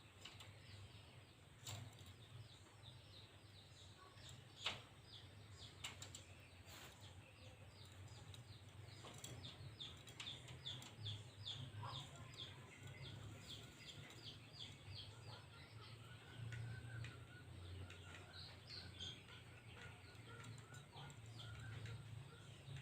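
Faint bird chirping: a quick run of short, high, falling chirps through the middle, then a thin faint whistle, over a low steady hum. A single sharp click comes about five seconds in.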